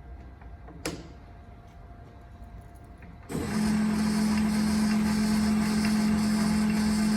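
Clausing 4901 metal lathe's motor and drivetrain switched on for a first test run after restoration and reassembly. After a single click about a second in, it starts abruptly a little past three seconds and runs at steady speed with a strong steady hum and a high whirr.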